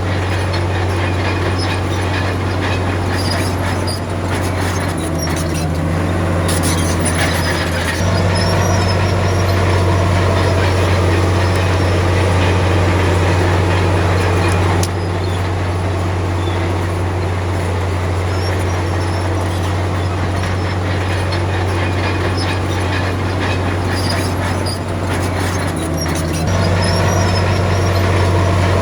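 Diesel engine of a Komatsu D53P crawler bulldozer running steadily at work, a deep drone that grows louder about eight seconds in, eases off around fifteen seconds, and rises again near the end.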